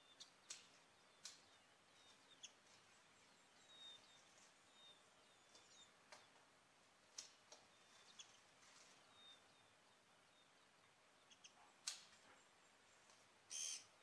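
Faint, short, high bird chirps and thin whistled notes come at irregular intervals, with a louder call near the end.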